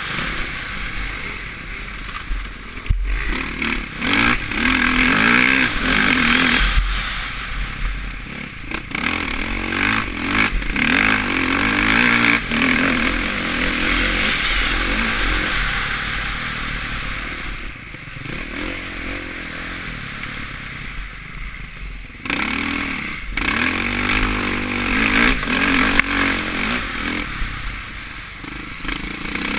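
Suzuki RM-Z450 single-cylinder four-stroke motocross engine being ridden hard, revving up and down over and over, with a heavy rush of wind noise and scattered knocks and clatter from the bike over rough ground. Over a few seconds about two-thirds of the way through it runs quieter and lower.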